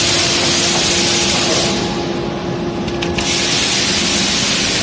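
Two long hisses of compressed air, each about two seconds and cut off abruptly, over a steady machine hum on a forging line.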